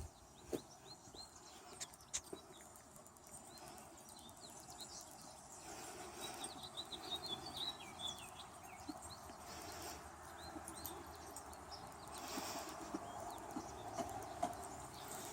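Small birds chirping in quick repeated calls, busiest about halfway through, over faint background noise with scattered light clicks and knocks.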